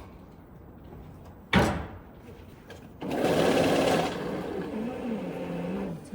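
A single sharp knock, then about a second of loud, fast buzzing from a small motor, which drops to a quieter sound with a wavering pitch.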